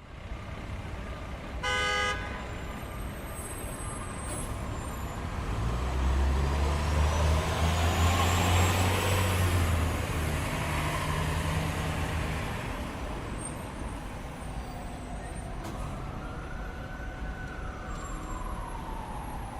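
City street traffic: a short car-horn toot about two seconds in, then a heavy vehicle's engine drone swelling as it passes. From about fifteen seconds a siren starts wailing up and down.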